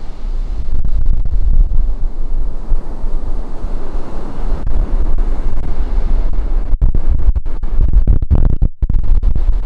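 Ocean surf washing on a beach, heavily overlaid by wind buffeting the microphone in a gusty low rumble, with a few brief dropouts in the sound near the end.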